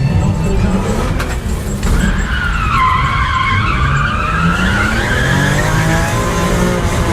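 Car tyres squealing in one long wavering squeal over a low engine note, heard from inside the car; the squeal starts about two seconds in and fades out about six seconds in.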